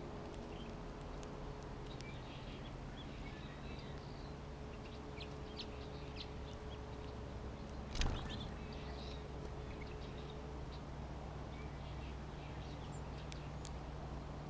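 Small songbirds at a backyard feeder chirping, faint and intermittent, over a steady low hum, with one sharp knock about eight seconds in.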